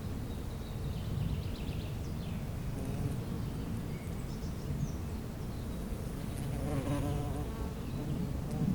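Bees buzzing in a steady, low hum, with faint bird chirps now and then above it.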